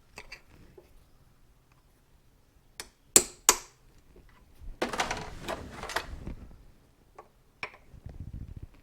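A hammer striking a chisel driven into an old motorcycle fork seal, with two sharp metal blows about three seconds in. These are followed by a second or so of rough metal scraping and prying as the seal is worked out of the fork tube, then a few light clinks.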